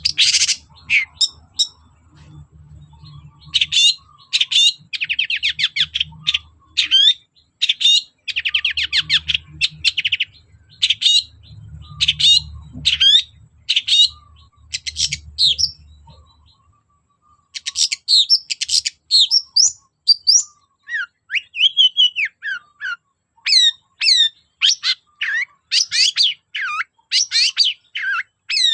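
Long-tailed shrike (cendet) singing a rapid, varied song of sharp chattering notes and fast trills. A faint low hum underneath stops about sixteen seconds in.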